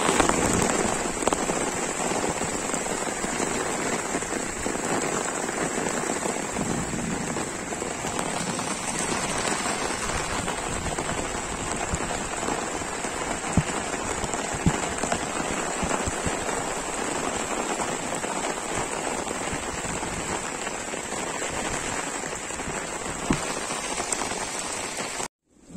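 Steady rain falling, with a few louder individual drops striking a surface.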